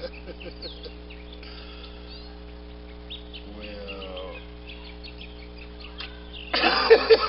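Small birds chirping in the background over a faint steady hum. Near the end a person's voice breaks in much louder.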